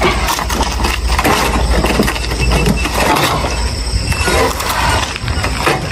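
Old motorcycle's engine sputtering with a fast, uneven low pulse and faltering about three seconds in, as the bike refuses to run: it has broken down.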